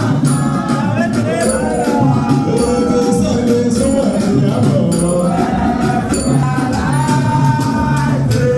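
Group of voices singing together over a steady, rhythmic rattle of hand percussion.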